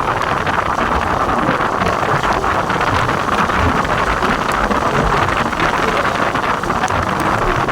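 Rain pouring down steadily, an even hiss dotted with the ticks of single drops, over an uneven low rumble of wind on the microphone.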